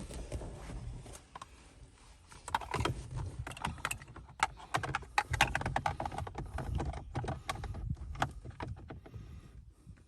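Irregular run of sharp clicks and knocks, like plastic trim pieces and small parts being handled and fitted on a car dashboard, starting about two seconds in and tailing off near the end.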